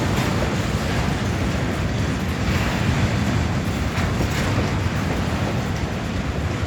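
Freight train cars rolling past at steady speed: a continuous low rumble of wheels on rail.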